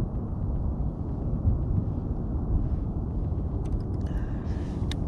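Wind buffeting the microphone, a steady low rumble that rises and falls. A few light clicks and a brief rustle sound near the end.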